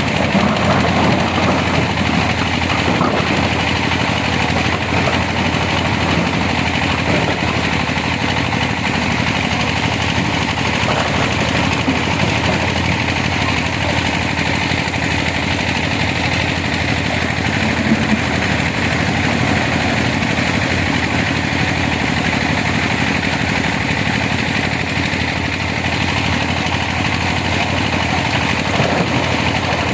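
Yellow excavator's diesel engine running steadily while loading sand, with no pauses or sharp changes in pitch.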